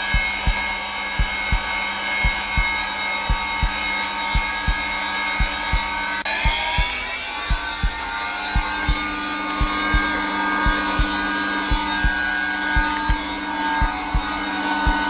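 Zelmer vacuum cleaner motor running at its lowest setting, a steady whine of several tones, with the regular low thumps of a heartbeat underneath. About six seconds in, the motor's pitch dips and then climbs back.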